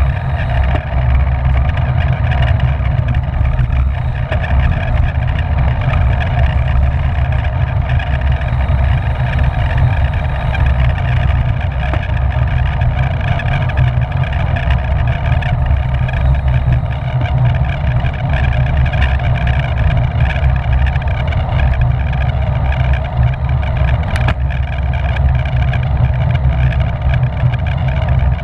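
Steady wind rush on a bicycle-mounted camera's microphone while riding at race speed in a criterium pack, heaviest in the low end, with one short click about 24 seconds in.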